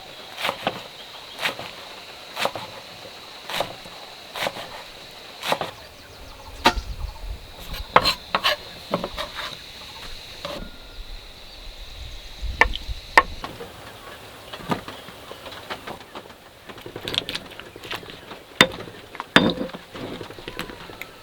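A series of sharp knocks, about one a second for the first six seconds, then scattered and irregular. Under them runs a steady high insect drone that stops a little past halfway.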